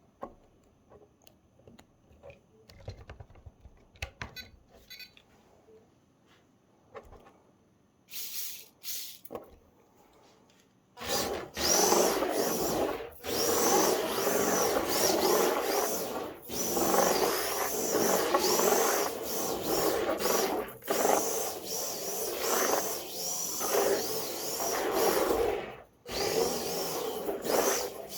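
Orlandoo micro RC car's small electric motor and gears whining as the car drives in stretches from about eleven seconds in. The high whine wavers up and down with the throttle and drops out briefly several times. Before that there are only faint clicks and light handling sounds.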